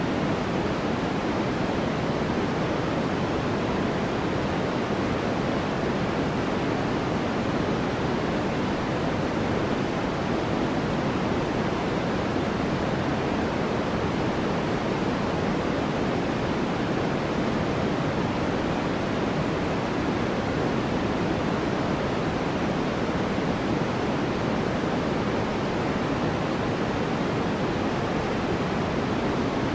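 Steady synthetic sleep noise: an even, unchanging hiss that is heaviest in the lower middle range and thins out toward the top, closer to pink noise than flat white noise.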